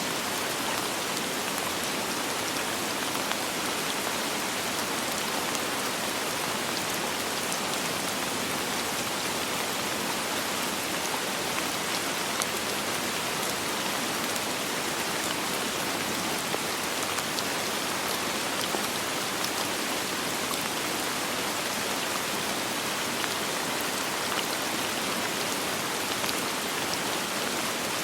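Steady soft rain falling, a constant hiss with many small drop patters and no thunder.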